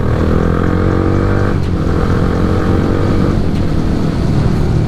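Yamaha R15 V3's 155 cc single-cylinder engine running under way through an Akrapovic aftermarket exhaust with the dB killer open. It holds a steady note, with the engine pitch shifting slightly twice.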